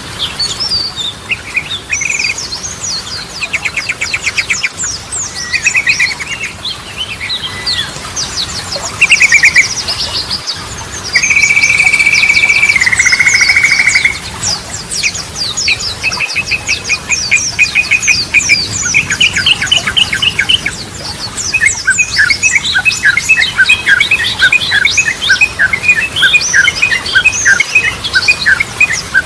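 Yellow-vented bulbul (trucukan) singing a fast, varied, chattering song of quick chirps and short phrases. About eleven seconds in comes a loud buzzing trill lasting about three seconds. The second half is a rapid run of repeated notes.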